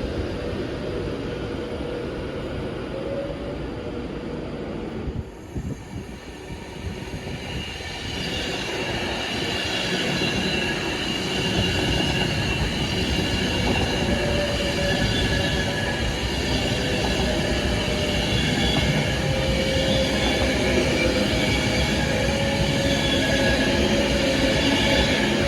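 A train running through a station, the sound growing louder about a third of the way in and then holding steady, with several high, steady squealing tones over the rumble.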